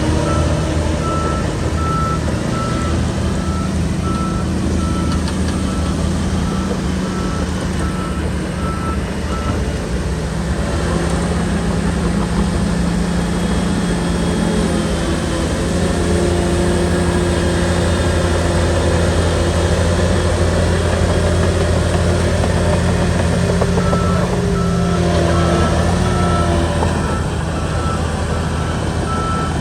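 Shantui bulldozer's diesel engine running steadily under load, its pitch shifting a couple of times as the machine works. Its reversing alarm beeps in an even repeating pattern for about the first ten seconds, stops, and starts again near the end as the dozer backs up.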